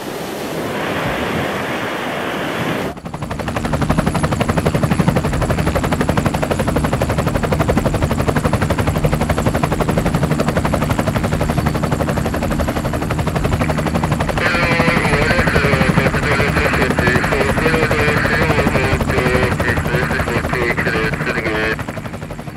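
Helicopter rotor chop, a loud, fast, even thudding that cuts in abruptly about three seconds in, after surf and wind noise. A wavering higher tone joins it about two-thirds of the way through.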